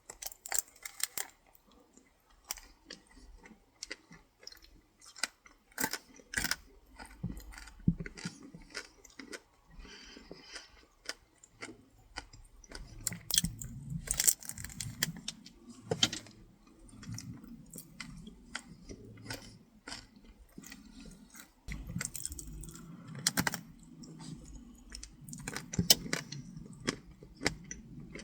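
Biting into and chewing a chocolate-coated Twinkie topped with Reese's Pieces: many sharp crunches of the chocolate shell and candy pieces, with stretches of denser chewing about halfway through and again near the end.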